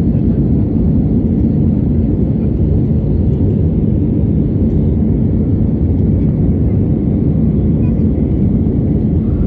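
Steady low rumble of an airliner in flight, heard inside the passenger cabin: engine and airflow noise, unchanging throughout.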